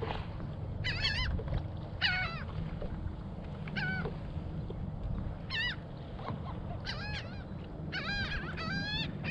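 Gulls working over feeding fish, giving short harsh cries with a wavering pitch every second or two, coming thicker near the end, over a steady low rumble of wind and water.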